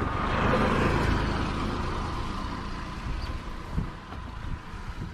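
Car on the move: steady engine and road rumble, with a louder rush of road noise that swells about a second in and slowly fades.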